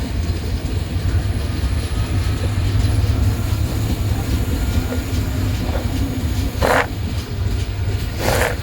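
Silk City Express train running with a steady low rumble. Two short noisy bursts come near the end, about a second and a half apart.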